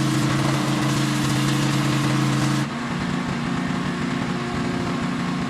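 An engine running steadily under a loud hiss. About two and a half seconds in, the hiss drops away abruptly and the engine note shifts, and it stays that way to the end.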